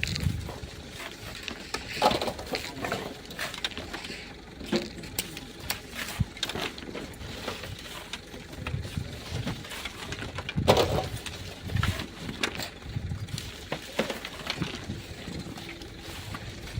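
Irregular scrapes and knocks of hand tools digging sand and rock, with two short vocal sounds, about two seconds in and near eleven seconds.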